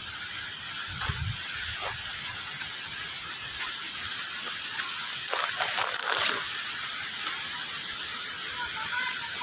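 Insects droning in one steady high band over a steady rushing-water hiss, with a few brief scuffs or rustles about five to six seconds in.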